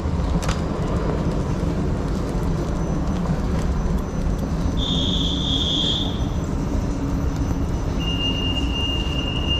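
London Underground train noise: a steady low rumble, with a short two-part high beep about five seconds in. A steady high whine sets in near the end.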